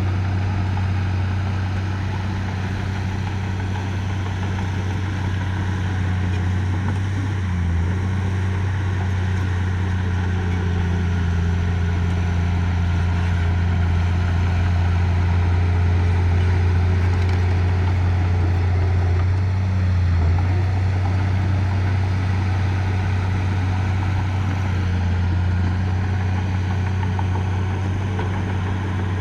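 Diesel engine of heavy earthmoving machinery running steadily, a deep even hum that dips briefly twice.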